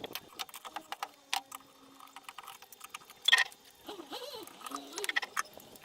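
Hand tools clicking and clinking against metal parts in irregular knocks, the loudest about three seconds in; no engine is running.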